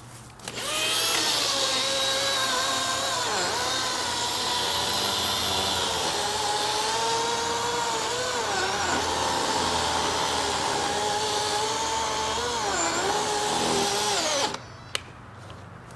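DeWalt cordless electric chainsaw running under load, a steady motor whine whose pitch sags briefly three times as the chain bites into the wood. It cuts off suddenly near the end, followed by a single click.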